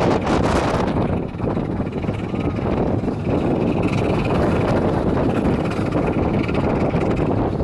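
Wind buffeting the microphone over the steady running noise of an open carriage rolling along the Ravenglass and Eskdale Railway's 15-inch-gauge track, gustier in the first second.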